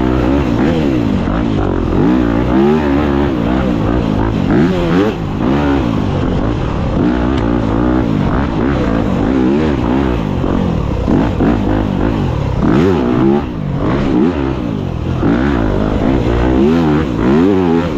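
Dirt bike engine revving up and down under hard riding, its pitch rising and falling repeatedly as the throttle is worked on and off.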